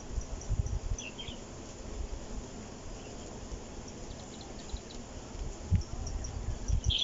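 Insects chirping in short, high, quickly repeated notes, with a brief higher call about a second in and again at the end, over irregular low rumbles.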